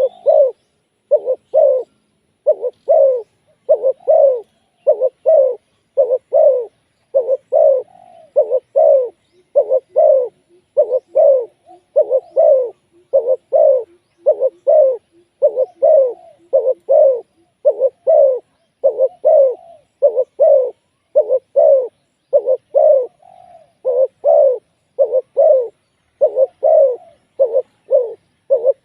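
Spotted dove cooing over and over, short coo notes coming in quick groups of two or three, almost without a break.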